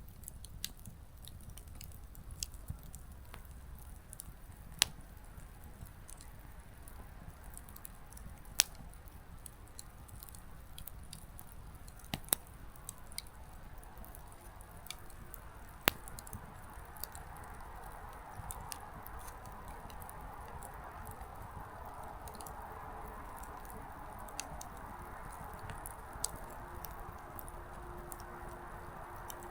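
Small wood campfire burning quietly: firewood crackling in scattered sharp pops, a few much louder than the rest, with a soft hiss of burning that swells about halfway through.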